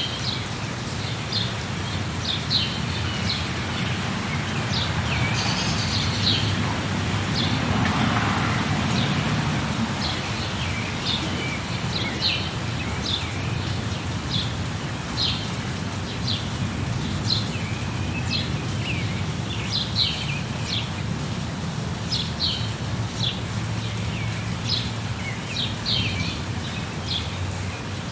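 Steady rain with birds chirping over it, short calls repeated every second or so all through. A broader swell rises and fades about eight seconds in.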